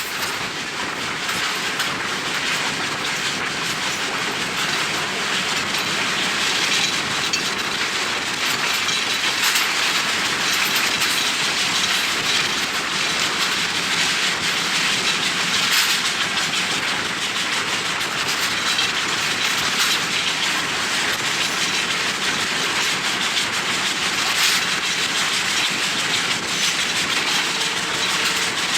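Passenger train running at speed: a steady rush of wheel and rail noise with a few sharp clacks from the track, and wind noise on the microphone.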